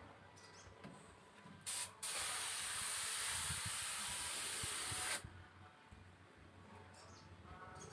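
Paint being sprayed onto a bird cage: a short spray hiss about two seconds in, then a steady spray hiss for about three seconds that cuts off sharply.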